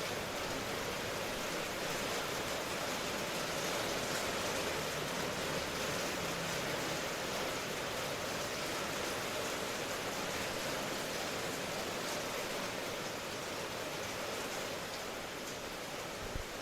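Steady rain falling, an even unbroken hiss, with a single soft low knock near the end.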